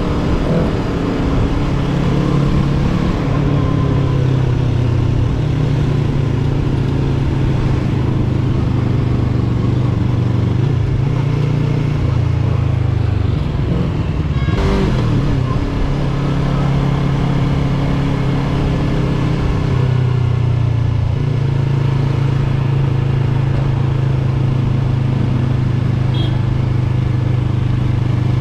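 Yamaha R3 motorcycle's parallel-twin engine running steadily while riding. Its pitch shifts briefly about halfway through, then holds level again.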